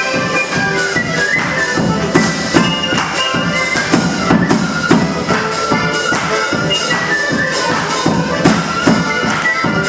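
Instrumental break in a Ukrainian folk song played live: a wind-like melody instrument carries the tune over a steady percussive beat with tambourine.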